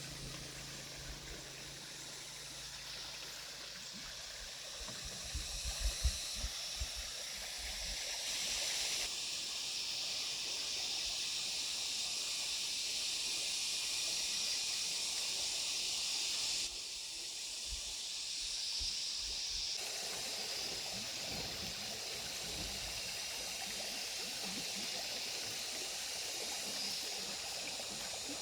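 Steady rushing of flowing water, like a forest stream, with a few low thumps in the first third. The hiss changes character abruptly several times.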